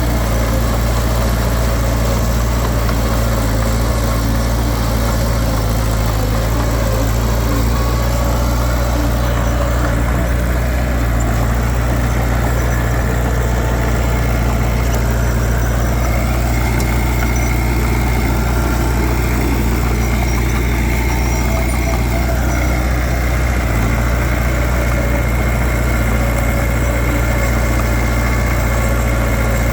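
Heavy diesel engine of earthmoving machinery running steadily, with a deep even drone. A thin high whine joins about halfway through.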